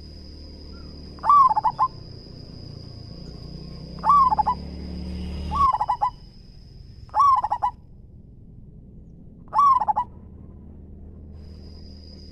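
Zebra dove (perkutut) cooing loudly: five short phrases of quick rolling coos, a couple of seconds apart. A steady high thin whine runs behind the first calls and stops about two-thirds of the way through.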